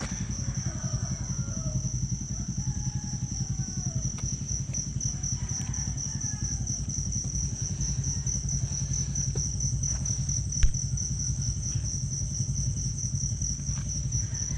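Crickets chirping in a steady high trill over a low, steady engine rumble, with one sharp click about ten seconds in.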